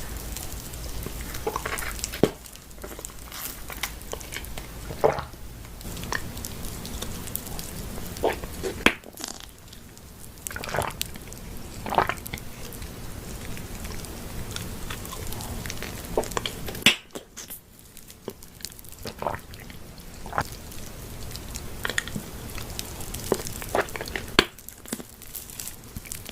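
Close-miked chewing and eating: irregular wet mouth clicks and smacks, with a few sharper clicks.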